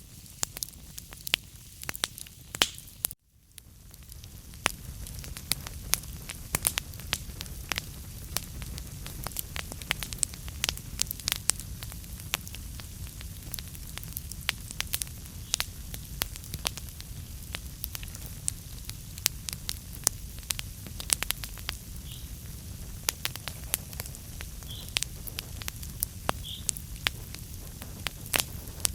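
Wood fire burning in a fireplace, crackling with frequent sharp pops over a steady low rumble of the flames. The sound cuts out for a split second about three seconds in.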